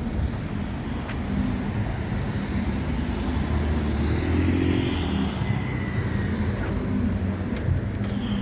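Road traffic: a car passes by, growing louder to a peak about four to five seconds in and then fading, over a steady background of street traffic noise.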